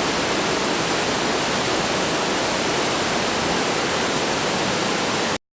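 Waterfall, a steady rush of falling water that cuts off suddenly near the end.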